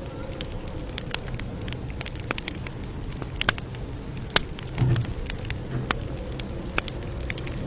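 Campfire crackling: irregular sharp pops and snaps of burning wood over a low, steady rumble of the flames, with a soft low thud about five seconds in.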